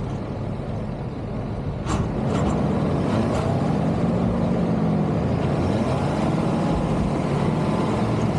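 Truck engine running, then revving up about two seconds in after a short sharp sound, and holding at higher revs with a wavering pitch.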